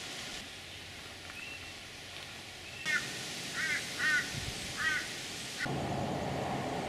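Outdoor ambience with a bird calling: a run of about five short calls, each rising then falling in pitch, in the second half.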